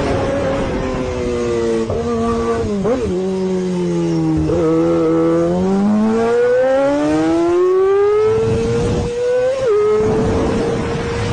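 Sport motorcycle's inline-four engine, apparently a BMW S1000RR: the engine note falls as the bike slows, with quick throttle blips on the downshifts. It then climbs steadily as the bike accelerates and drops sharply on an upshift near the end, over steady wind noise.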